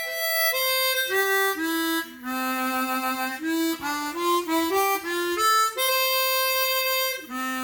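Stock Suzuki SCX-16 chromatic harmonica playing a slow single-note melody, each note clear with many overtones, with a longer held note near the end. The harp is played dead cold, not warmed up.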